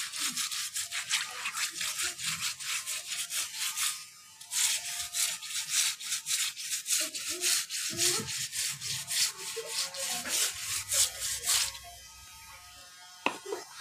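Rapid rhythmic scrubbing or brushing strokes against a surface, about five a second, with a short pause about four seconds in, stopping near the end.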